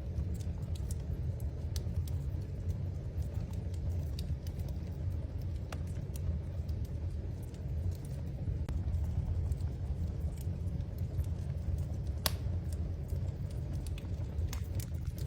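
Wood fire in a fireplace crackling: scattered sharp pops and snaps over a low steady rumble, with one louder pop about twelve seconds in.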